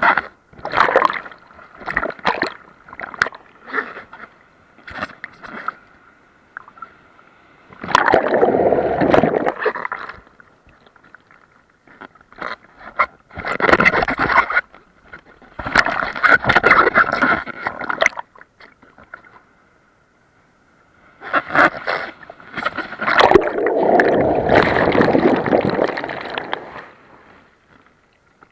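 Water splashing and sloshing in several bursts lasting from about two to six seconds, with quieter gaps between them and a faint steady high whine underneath.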